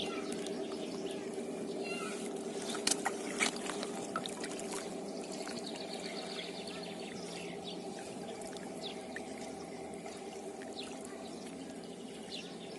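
Steady rush of water flowing in a small river swollen with rain. About three seconds in come two short, sharp knocks or splashes.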